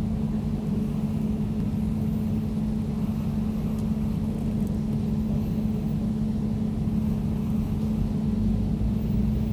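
Air conditioner running steadily: a constant low hum over a rush of air, unchanging throughout.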